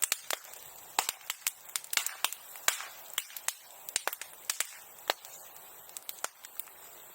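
Bonfire crackling and popping, a rapid irregular run of sharp snaps over a faint steady hiss.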